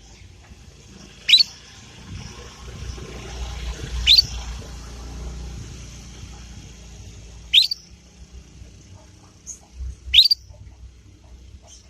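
Young canary giving short, sharp chirps that sweep upward in pitch, four of them about three seconds apart, over a faint low rumble.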